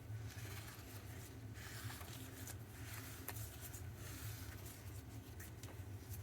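Faint steady low hum with a few light clicks scattered through it.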